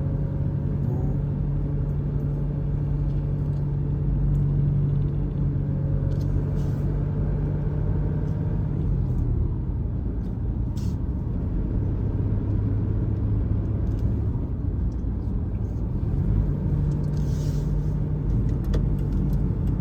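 A road vehicle's engine and road noise while driving: a steady low hum that drops in pitch about halfway through and rises again near the end as the speed changes.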